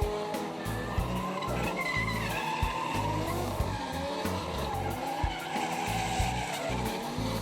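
Drift cars' engines revving and their tyres squealing and skidding, under background music with a steady thumping beat.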